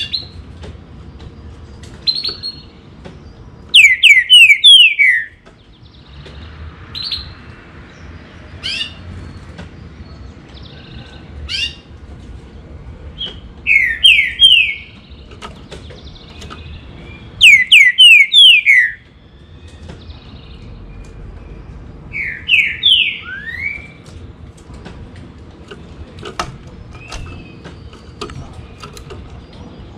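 Green-winged saltator (trinca-ferro) singing: four loud song phrases, each a quick run of four or five slurred whistled notes falling in pitch, with short single chirps between them.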